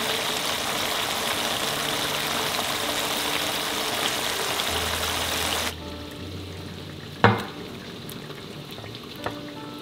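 Tomato-and-chili sardine sauce sizzling and bubbling in a wok, a dense steady hiss that stops abruptly about six seconds in. Soft background music continues, and a single sharp knock sounds about a second later, near when the wok is tipped over the serving dish.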